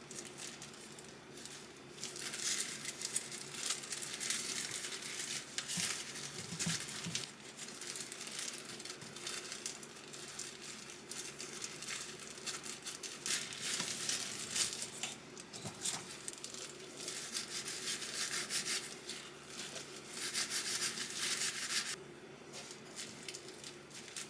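Crinkling and rustling in several bursts of a few seconds each, with a faint steady hum underneath.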